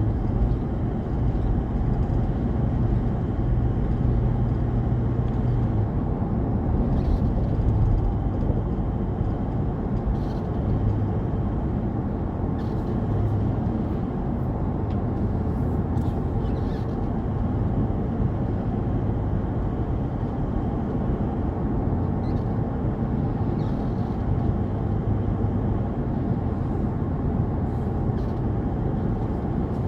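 Steady low rumble of a car driving along a road: tyre, engine and wind noise blended into one unbroken sound, with a few faint ticks.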